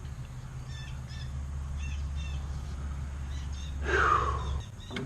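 Birds chirping repeatedly over a steady low hum. About four seconds in there is a louder sound that falls in pitch, and the hum stops soon after.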